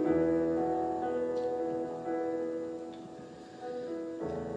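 Slow, soft background piano playing held chords, a new chord struck about every two seconds and left to ring and fade.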